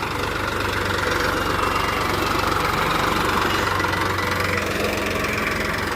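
Tractor's diesel engine running steadily, with a fast, even clatter of firing pulses.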